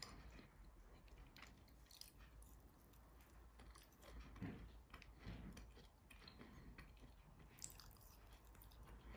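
Faint chewing and crunching of a pan-fried lotus root and carrot pancake, with small scattered clicks.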